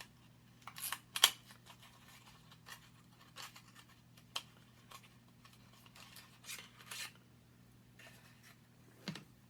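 Lipstick packaging being handled and opened by hand: scattered short crinkles and clicks, the sharpest a little over a second in.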